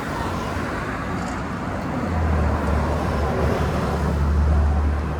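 Street traffic noise. From about two seconds in, a low engine rumble from a nearby motor vehicle grows louder.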